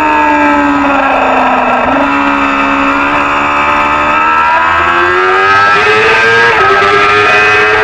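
Racing motorcycle engine at high revs. Its pitch falls for about two seconds, then climbs steadily under acceleration, and drops briefly about six and a half seconds in at a gear change.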